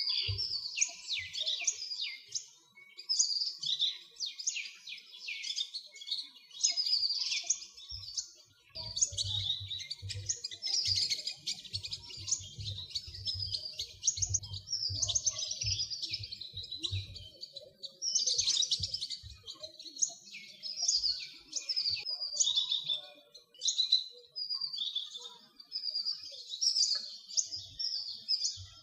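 Small songbirds chirping and twittering without pause, many short, high calls overlapping. A run of soft low thumps comes in the middle.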